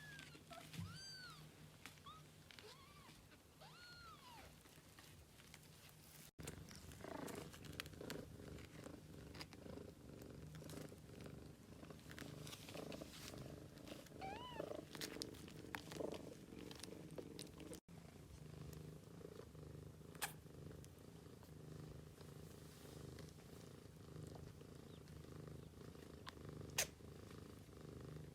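Soft, steady cat purring, with a few short, high, arching mews from 10-day-old kittens in the first few seconds. The sound briefly cuts out twice.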